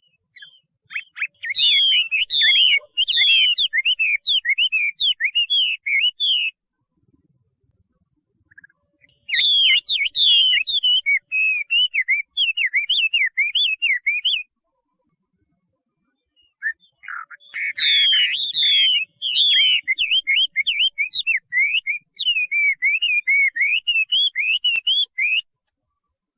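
Chinese hwamei (laughingthrush) singing: three long phrases of rapid, loud whistled notes that slur up and down, each lasting about five to eight seconds, with short pauses between them.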